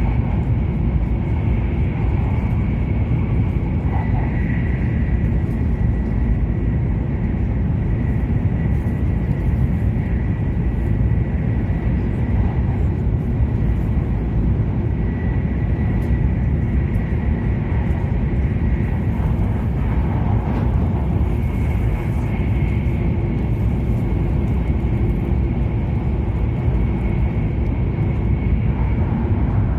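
E7 series Shinkansen heard from inside the passenger cabin while running at speed: a steady, dense low rumble, with a thin high whine that fades in and out.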